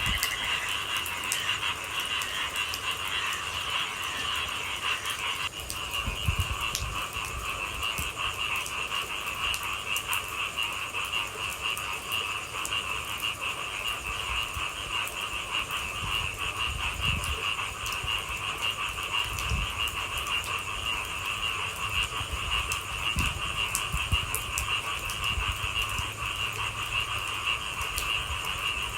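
A dense, steady chorus of frogs calling at night, with scattered light ticks over it.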